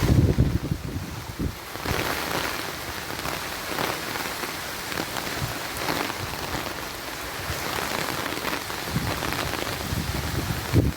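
Heavy rain falling steadily in a dense, even hiss. A low rumble of wind opens the first second or so.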